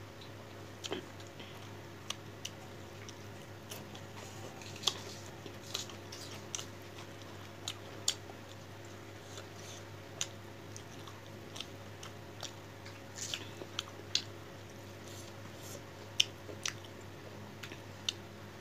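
Close-miked eating sounds of rice and fish curry taken by hand: wet chewing and lip-smacking clicks at an irregular pace, over a steady low hum.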